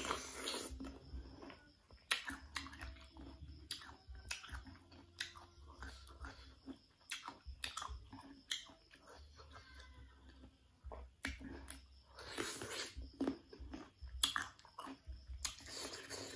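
Close-up biting and crunchy chewing of raw unripe mango, with many short sharp crunches and wet mouth clicks. The bites are loudest about 12 seconds in and near the end.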